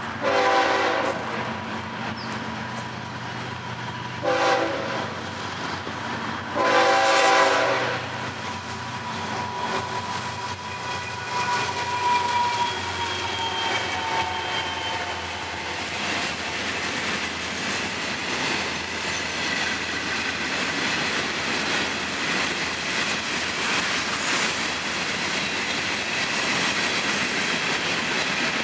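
Florida East Coast freight train's diesel locomotives sounding the horn three times: long, short, long. The train then rolls past with steady wheel clatter from the freight cars and faint high wheel squeal.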